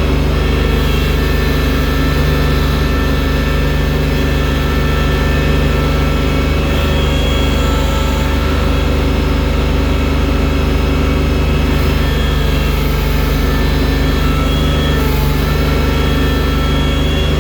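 Engine of a loader-bucket machine running steadily under load while moving deep snow, with a constant low hum and higher tones held throughout.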